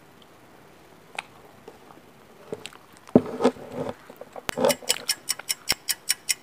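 Close-miked chewing and mouth sounds of a person eating instant noodles, loudest about three seconds in. From about four and a half seconds in, a fast, even ticking of about five ticks a second.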